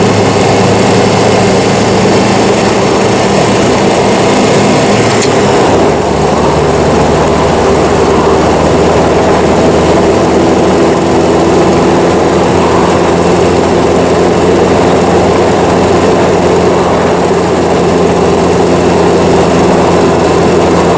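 1938 Austin 10 Cambridge's four-cylinder side-valve engine running steadily while the car drives along, over a rush of road and wind noise. The engine note shifts lower about six seconds in.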